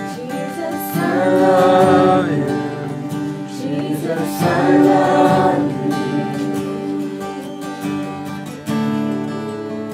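Worship music: acoustic guitar strumming sustained chords, with voices singing two long, swelling phrases over it.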